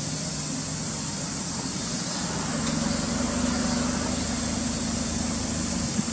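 Suzuki Alto Works' 658 cc three-cylinder turbo engine idling steadily through an aftermarket Monster Sport muffler, a little louder from about three seconds in.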